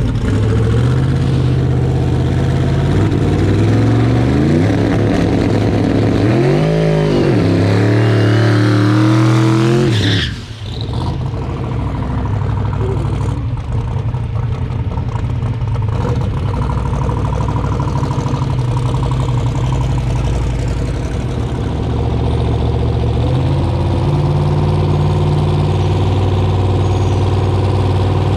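Twin-turbo Buick Grand National's V6 under hard acceleration, its pitch climbing and dropping in steps with the gear changes. It lets off suddenly about ten seconds in. The engine then runs on at a steadier, lower level and picks up again near the end.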